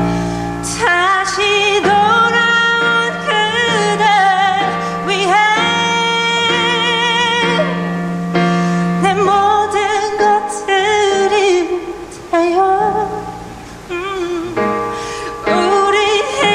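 A woman singing a slow ballad with vibrato, accompanying herself on piano.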